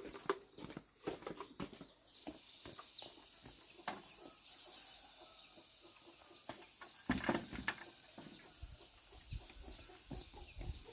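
Outdoor rural ambience: high-pitched chirping, with a quick run of chirps about four and a half seconds in, over scattered knocks and rustling, the loudest a cluster of knocks about seven seconds in.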